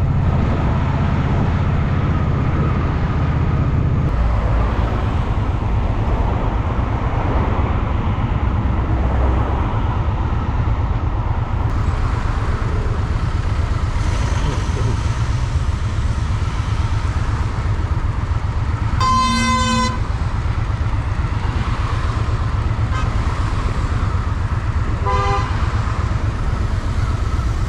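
Honda Shadow VT750's V-twin engine running as the motorcycle rides through city traffic, with road and wind noise. A vehicle horn honks for about a second two-thirds of the way in, and a shorter, fainter honk follows a few seconds later.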